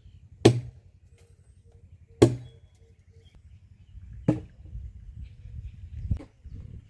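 Four sharp chopping strikes, about two seconds apart: a blade coming down on something solid.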